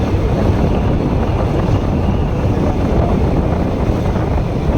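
Riding noise from a moving Bajaj Pulsar NS160 motorcycle: wind buffeting the microphone over the sound of the bike on the road, a loud, steady, low rumble.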